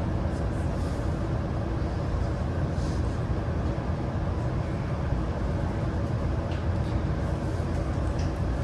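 Steady running rumble heard from inside the passenger car of a JR West 323 series electric train under way: wheels on the rails and body noise, with a few faint steady tones above the rumble.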